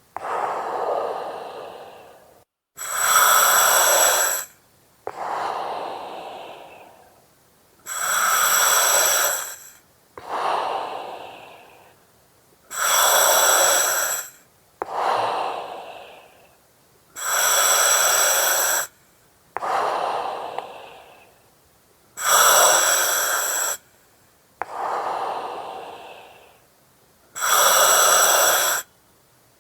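Slow, steady breathing through an oxygen mask: each breath is a loud hiss of about a second and a half, followed by a softer breath that slides down and fades out. Six slow breath cycles, one about every five seconds.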